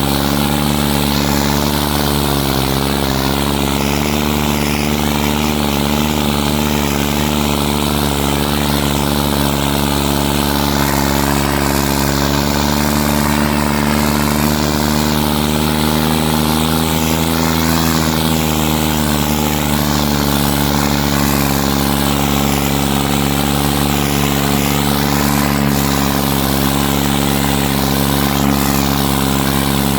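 New Holland 3630 tractor's diesel engine running steadily at an even speed, its pitch dipping and recovering slightly a few times.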